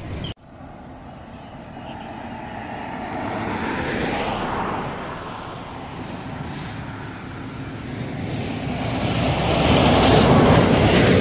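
Road traffic: vehicles driving past. One swells and fades about four seconds in, and a louder one builds near the end.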